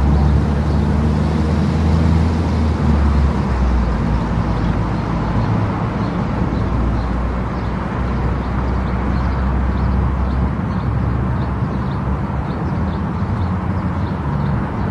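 Car driving at highway speed, steady road and tyre noise with a deep engine rumble, heard from inside the car. From the middle on there is a faint regular ticking, about twice a second.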